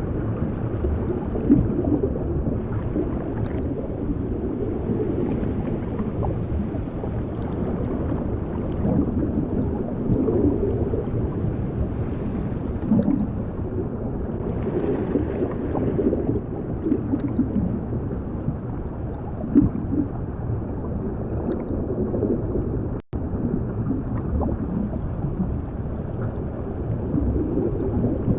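Underwater ambience: a steady, muffled low rumble with swelling, gurgling bubbles, cutting out for an instant about four-fifths of the way through.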